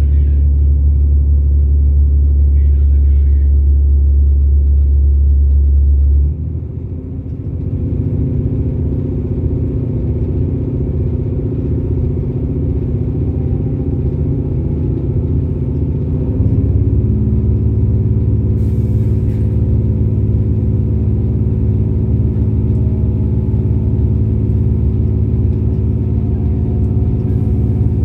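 Steady low engine hum and rumble heard from inside a moving diesel passenger train, shifting abruptly about six seconds in and again about halfway through, with faint tones slowly rising as the train picks up speed.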